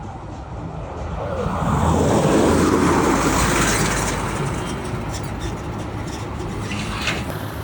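Road traffic: a motor vehicle passing close by, its noise swelling to a peak two to three seconds in and then fading into a steady traffic rumble.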